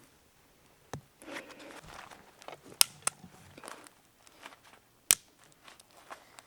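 A few sharp clicks or snaps among quieter rustling handling noise, the loudest about three seconds in and again about five seconds in.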